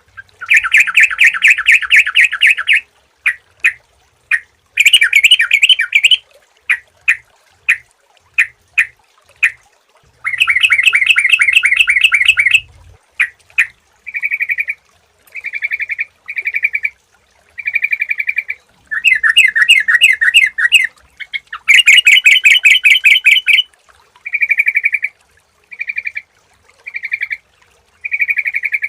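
Yellow-vented bulbul (trucukan) singing loudly: fast chattering runs of notes a second or two long, alternating with short, separate bubbly phrases.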